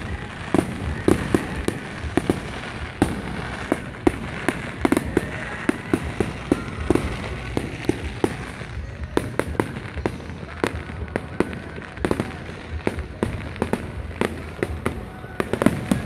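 Aerial fireworks going off without a break: a rapid string of bangs and pops, several a second, from shells bursting overhead.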